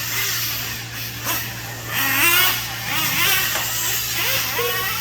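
Several nitro-powered RC trucks' small glow engines running at once, their high-pitched whine rising and falling as they accelerate and slow through the track, over a steady low hum.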